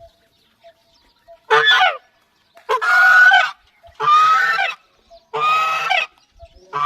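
A large bird giving loud, goose-like honking calls: five calls, each under a second long, about one and a quarter seconds apart.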